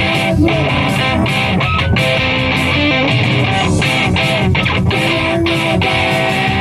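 Loud live music led by electric guitar, dense and steady throughout, with held notes over a thick wash of sound.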